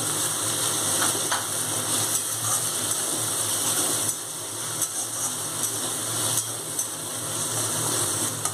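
Chopped tomatoes, green peas and onions sizzling in hot oil in a metal kadai, with a flat metal spatula scraping and tapping against the pan a few times as they are stirred. A steady low hum runs underneath.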